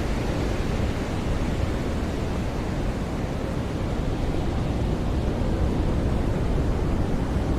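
Ocean surf washing onto a beach: a steady rushing roar of breaking waves that swells a little around the middle.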